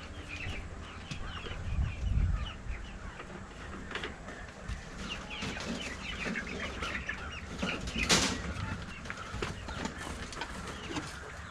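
Chickens clucking, with many short calls scattered throughout, and a brief loud rushing burst about eight seconds in.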